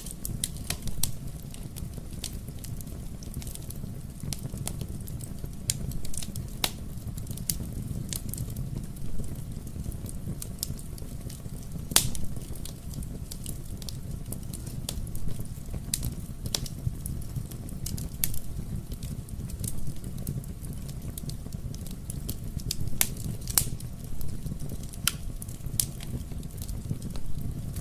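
Wood fire crackling in a fireplace: a steady low rumble of burning with frequent sharp pops and snaps scattered irregularly throughout.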